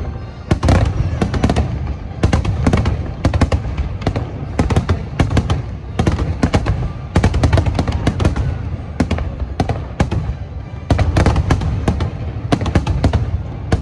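Aerial fireworks shells bursting in a dense barrage: sharp booms and cracks follow one another several times a second over a continuous low rumble.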